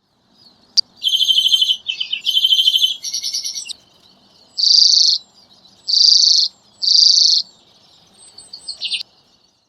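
Redpoll calling: rapid trilled chattering about a second in, then three loud buzzy notes about a second apart, then a few faint short notes near the end.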